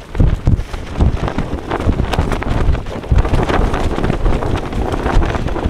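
Gale-force wind buffeting a Lanshan 2 tent in strong gusts, rumbling heavily on the microphone, with many short flaps and cracks of the tent fabric.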